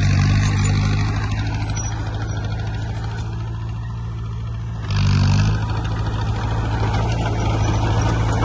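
Heavy diesel engine of earthmoving machinery running steadily, easing off slightly in the middle, then a sudden short surge with a burst of hiss about five seconds in.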